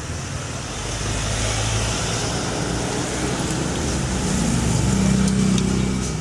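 A motor vehicle engine running nearby, with a low steady hum that grows louder about five seconds in, then eases off.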